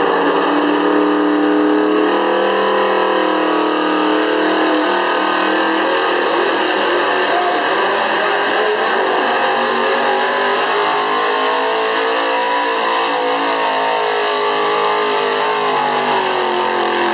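Street-class 4x4 pickup engine held at high revs under heavy load while dragging a pulling sled. The engine note wavers, sagging slightly, climbing again partway through and dropping near the end as the load builds.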